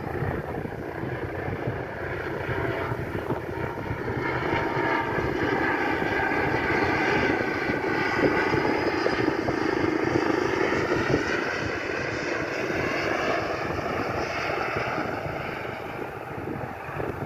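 An airplane flying past, its engine noise building to a peak about halfway through and then fading away.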